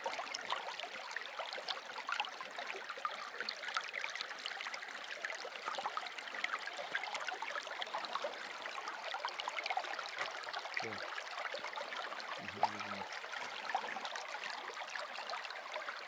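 Water running and splashing steadily, an even rushing sound full of small splashes.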